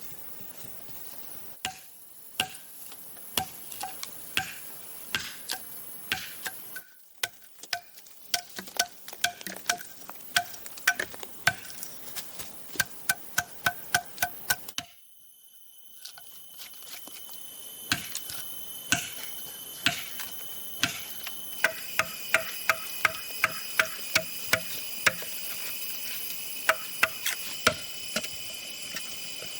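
Repeated sharp knocks of a hand tool striking hollow bamboo, each with a short hollow ring, sometimes in quick runs of several blows. Insects chirr steadily behind, louder in the second half.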